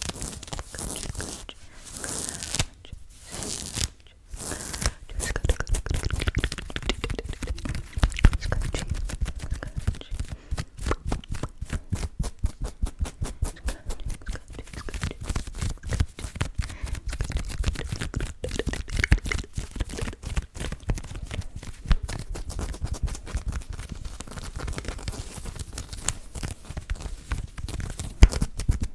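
Close-miked ASMR scratching and rubbing at the microphone: quick, dense strokes with heavy low thumps of handling. It is softer and more hissy for the first few seconds, with two short breaks, then settles into a rapid run of strokes.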